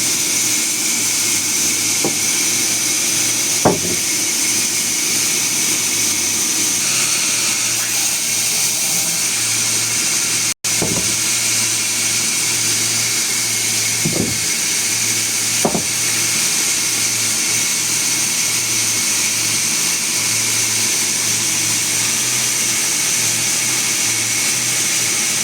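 Sawmill machinery running steadily with a low hum and a high hiss, with a few sharp knocks scattered through it; the sound breaks off for an instant near the middle.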